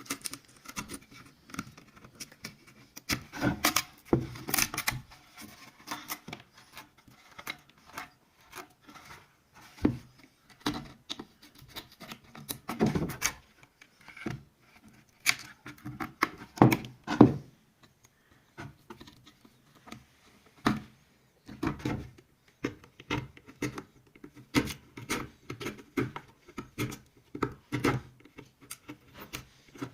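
Hand tool rubbing and scraping on the willow of a cricket bat, in irregular short strokes with occasional clicks and knocks.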